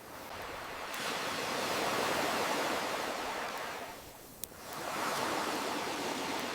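Ocean waves washing in and drawing back, two swells with a lull about four seconds in, and a sharp campfire pop at the start and another during the lull.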